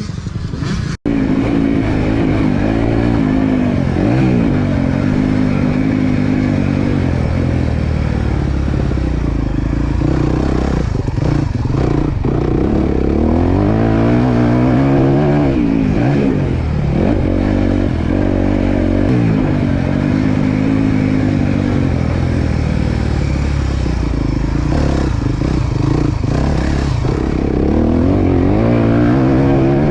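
Four-stroke motocross bike engine ridden close to the microphone, its revs rising and falling repeatedly as it is throttled on and off through rutted corners.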